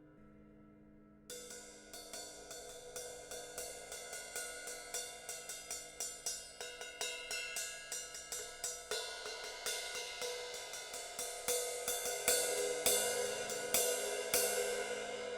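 18-inch Sabian AAX Metal Crash cymbal struck over and over, about three hits a second, its bright ring carrying on between strikes. The hits grow louder in the second half, then the ring fades after the last one.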